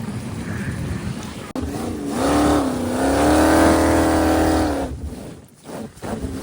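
An engine revving up and holding a steady high pitch for about three seconds, then dropping away, with wind and rushing noise before it.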